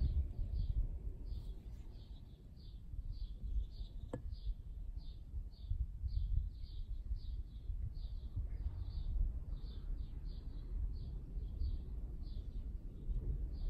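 A bird chirping over and over at an even pace, about two short calls a second, over a steady low rumble. A single sharp click comes about four seconds in.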